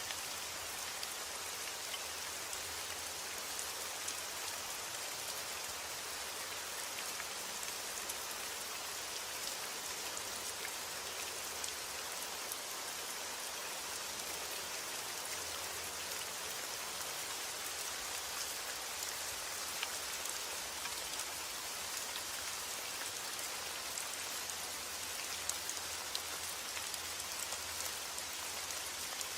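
Steady heavy rain falling on a roof, a continuous hiss with fine individual drop taps throughout.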